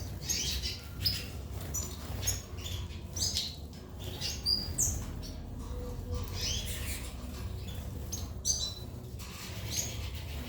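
Birds chirping and squawking in short, sharp calls, roughly one a second, over a steady low rumble.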